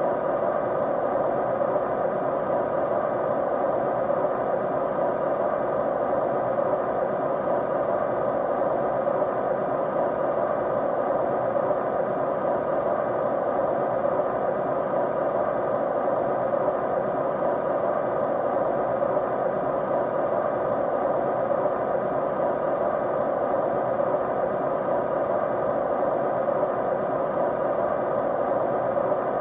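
Steady white noise for studying or sleep: an even, unchanging rush, fullest in the middle range, with a few faint steady tones under it.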